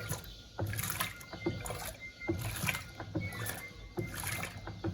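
Electrolux LTC07 washing machine's control panel beeping in short tones as programme buttons are pressed, over repeated soft knocks and water sloshing.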